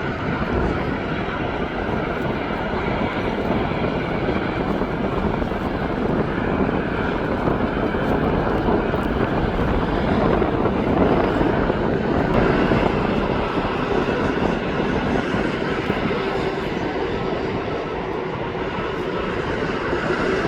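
Jet airliner engines running, a steady rush of noise with a faint whine in it that swells slightly about halfway through.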